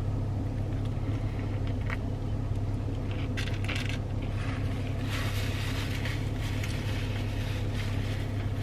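Steady low hum of a car idling, heard from inside the cabin, with a few faint light clicks and rustles from food and packaging.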